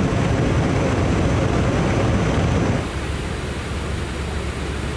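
Loud, steady rush of air and aircraft noise in flight, heaviest in the low end, easing somewhat about three seconds in.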